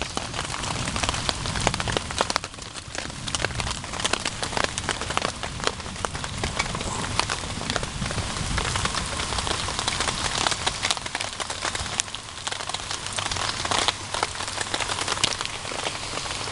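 Heavy rain falling on a tarp shelter and the ground around it, a steady hiss of rain dense with many separate drop hits.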